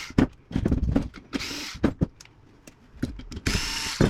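A handheld power tool, likely a drill, run in three short bursts of about half a second each, with sharp clicks and knocks of metal parts between the bursts.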